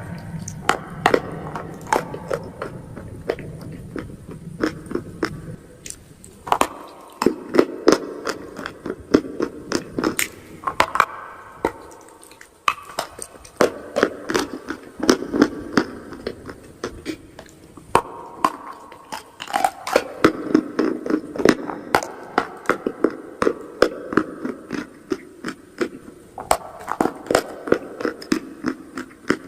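Chalk and clay being bitten and chewed close to the microphone: a dense run of sharp crunches over steady chewing.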